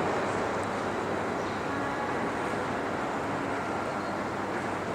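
Steady outdoor street noise in the rain: an even hiss of rainfall mixed with distant traffic and a faint low hum.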